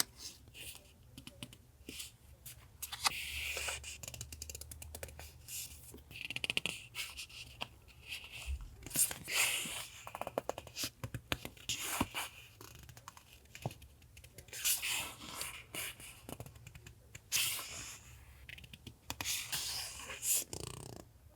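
Sheets of paper and paper pieces being handled: irregular rustles, crinkles and light taps.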